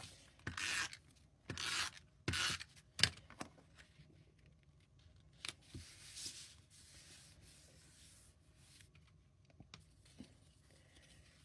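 Paper and cardstock being handled: four short scraping, rustling strokes in the first three seconds, then faint rubbing and small ticks.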